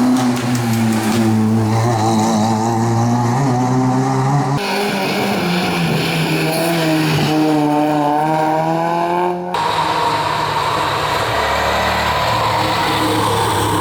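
Historic rally car engines running hard on a stage, in three shots cut together: the engine note changes abruptly about 4.5 and 9.5 seconds in, and the middle car's revs climb as it accelerates.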